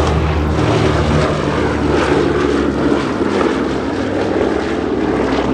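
Radial piston engines of a four-engine World War II bomber droning steadily as it flies past.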